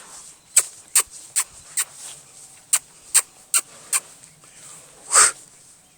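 A pet animal's short, sharp calls: two quick runs of four, evenly spaced, then one longer, louder call near the end.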